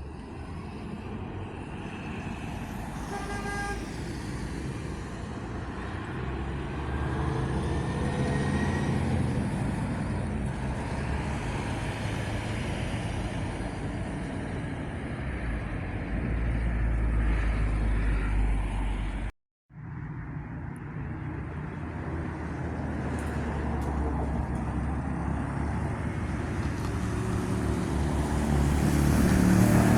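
Long-distance coach diesel engines running as buses move, with a short horn toot about three seconds in. After a cut about twenty seconds in, another bus's engine grows steadily louder toward the end as it draws near.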